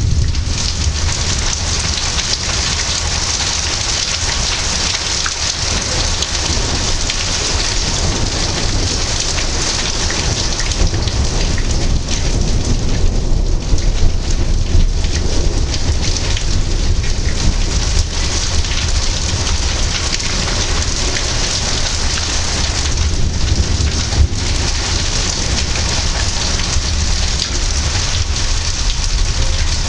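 Heavy rain falling steadily in a thunderstorm, with a low rumble of thunder underneath that swells a little about halfway through.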